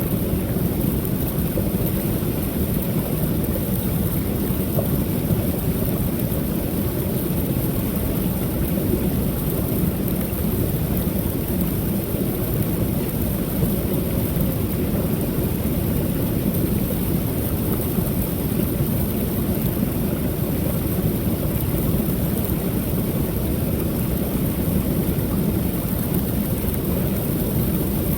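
Creek waterfall pouring steadily: a constant deep rush of falling water.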